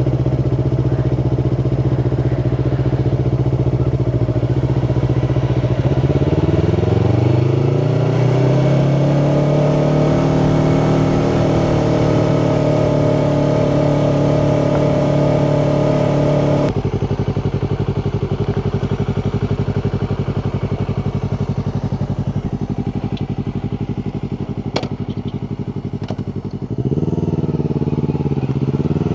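2018 Yamaha R3's parallel-twin engine running at low revs, climbing in pitch about six seconds in and holding there, then dropping back abruptly a little past halfway; a second brief rise comes near the end.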